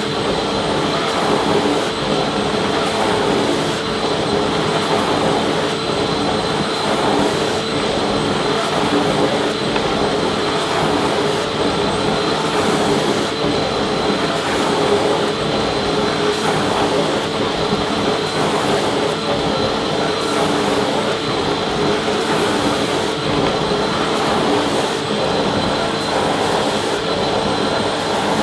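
Vacuum cleaner running continuously: a steady rush of air with a constant motor hum and a faint high whine.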